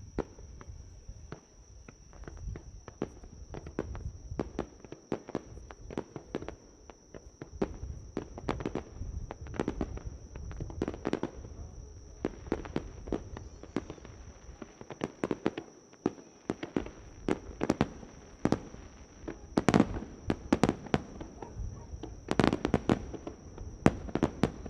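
Aerial fireworks going off in a rapid, irregular barrage of bangs and crackles, with the loudest bangs about twenty seconds in and again a couple of seconds later.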